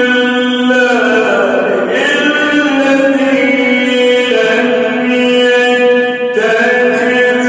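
A male voice reciting the Quran in the melodic tajweed style, holding long ornamented notes that slide up and down in pitch, with short breaths between phrases about two, four and six seconds in.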